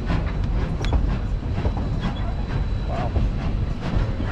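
Narrow-gauge passenger train rolling along the track, heard from an open-sided car: a steady low rumble with irregular clicks and clacks of the wheels on the rails.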